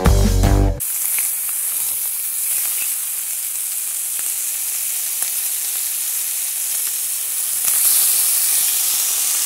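Food frying with a steady sizzling hiss that swells slightly near the end. Guitar music cuts off abruptly within the first second.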